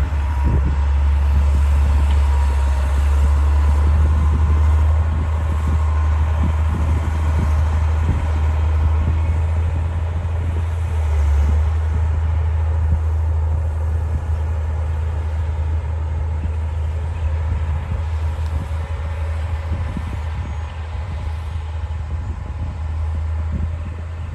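D60 crawler bulldozer's diesel engine running steadily with a deep drone, with irregular clatter over it; the sound eases off near the end.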